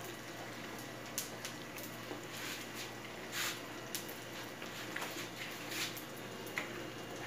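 A person chewing a bite of breaded fried beef tripe, with scattered short soft clicks and squishes from the mouth over a steady faint background hiss.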